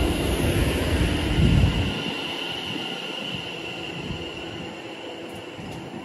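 A train passing at the station: a heavy low rumble for about the first two seconds, then fading as the train moves away. A steady high tone runs throughout.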